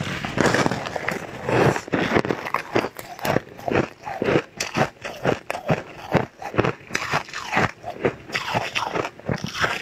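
A person biting into and chewing mouthfuls of a grainy purple food, a quick, even run of crunches several times a second.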